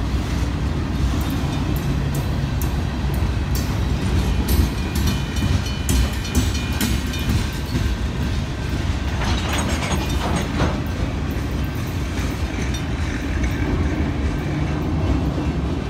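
Slow-moving freight train's autorack cars rolling past: a steady low rumble of steel wheels on rail, with sharp clicks and clanks from wheels and couplers, most of them between about four and seven seconds in.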